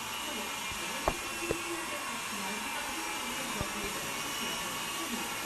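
Small RC helicopter's electric motor and rotor whirring steadily in flight, with a couple of faint clicks about a second in.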